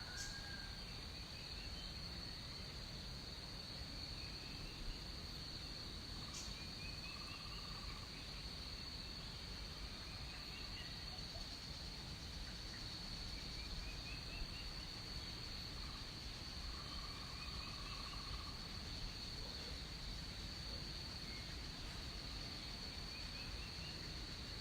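Tropical jungle soundscape: a steady, high-pitched insect drone runs throughout. Short rising calls repeat every few seconds over it, and twice a lower buzzing trill lasts about a second.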